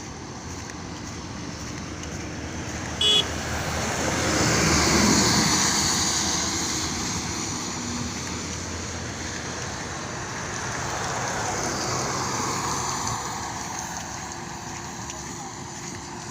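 Highway traffic passing: a vehicle goes by with a rush of engine and tyre noise that swells to its loudest about five seconds in and fades, and another passes around twelve seconds in. A short horn toot sounds about three seconds in.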